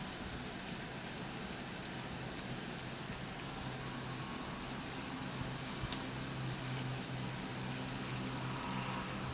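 Steady hiss of rain falling during a storm, with a faint low hum growing through the second half and a single sharp click about six seconds in.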